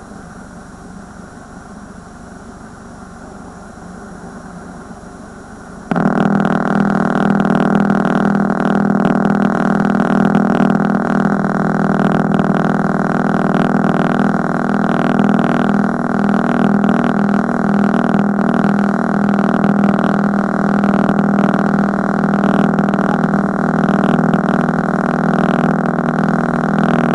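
Audio track of a VHS tape at the end of its recording, played back sped up from EP/SLP to SP speed: faint hiss and hum, then about six seconds in a loud steady buzz cuts in suddenly, a low hum with a stack of higher overtones, the static-roll buzzing of the blank, static part of the tape.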